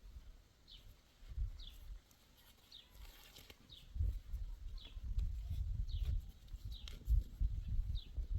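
A small bird chirping over and over, a short high call repeated about once a second, over a low irregular rumble.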